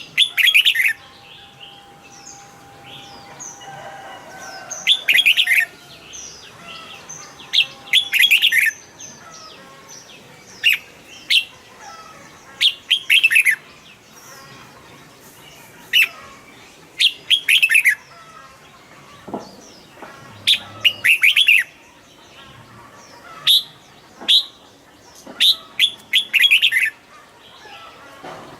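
Red-whiskered bulbul singing short, loud phrases over and over, a new phrase every second or two.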